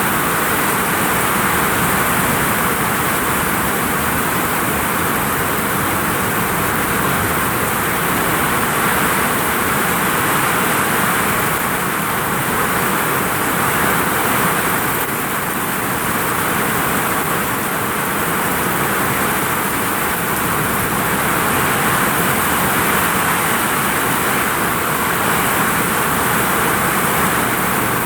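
Heavy rain drumming on a vinyl roof: a loud, steady, dense hiss.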